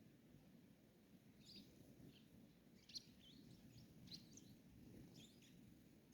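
Faint bird chirps, short high calls that come singly and in small clusters several times, over a low outdoor rumble.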